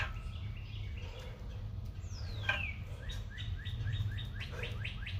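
A songbird singing: a long falling whistle about two seconds in, then a run of short repeated notes that speeds up, over a steady low rumble.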